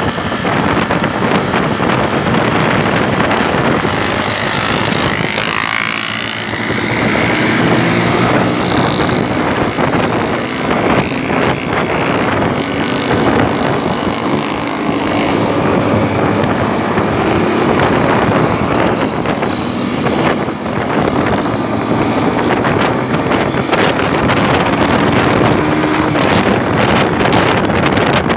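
Motorcycle engine running while riding, with wind rushing over the microphone. The engine note shifts up and down through the ride, and a brief higher wavering sound comes in about five seconds in.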